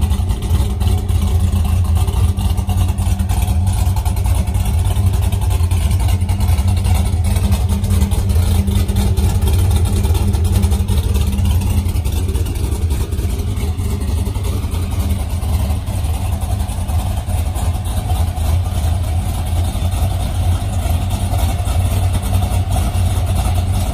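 A vehicle engine idling steadily with a deep, even rumble.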